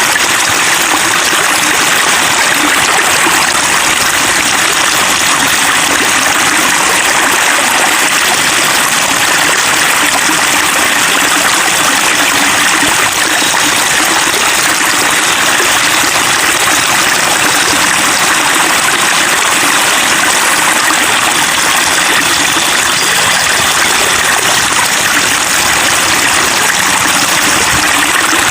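Flowing water babbling steadily and evenly, without a break.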